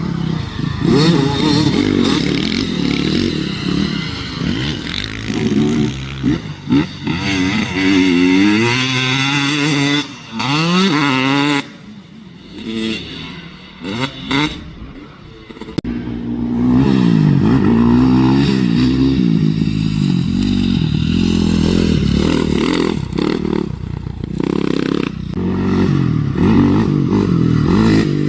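2008 Honda CRF450R's single-cylinder four-stroke engine revving up and down with throttle and gear changes while being ridden, heard from the helmet-mounted camera. From about twelve to sixteen seconds in it eases off and runs quieter, then pulls hard again.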